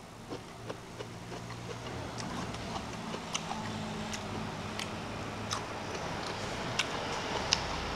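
Close-miked chewing with wet mouth clicks and lip smacks, irregular sharp clicks about once or twice a second, over a faint low steady hum.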